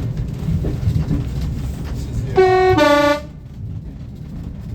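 Diesel train's two-tone horn: a short high note, then a lower note, about a second in all, over the steady low rumble of the train running.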